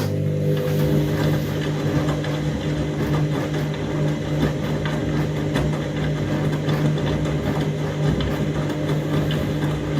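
Washing machine running mid-wash: a steady motor hum with the churning of a drum full of suds over it. The machine is overloaded with double the detergent and still has a lot of suds.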